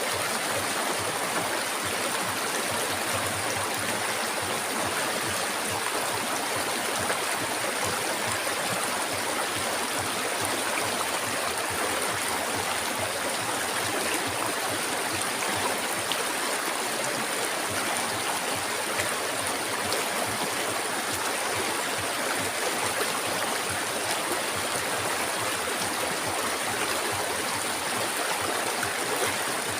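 Flowing river water: a steady, unbroken rush of water.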